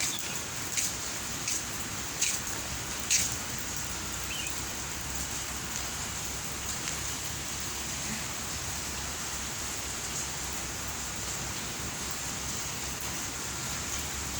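Steady heavy rain falling, an even hiss with a few sharper taps in the first three seconds.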